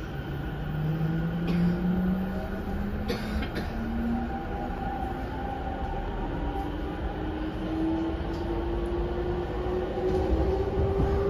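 Cabin running noise of an E231-500 series electric commuter train accelerating: the traction motors whine with a pitch that climbs steadily over the rumble of wheels on rail. A few sharp clicks come about one and a half and three seconds in.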